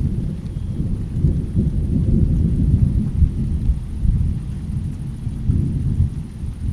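Low rolling rumble of thunder in a rainstorm, building about a second in, loudest through the middle and easing off toward the end.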